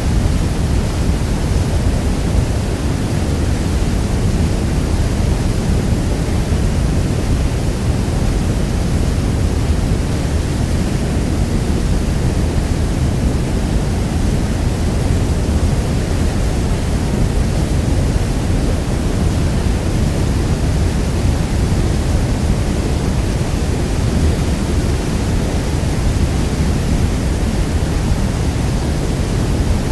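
Niagara Falls' steady rush of falling water, an even, unbroken noise that is deepest and heaviest in the low end.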